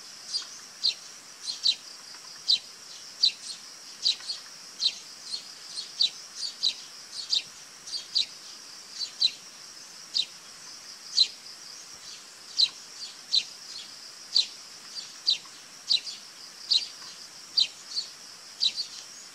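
A bird calling over and over in short, falling chirps, roughly one or two a second, over a steady high-pitched hum.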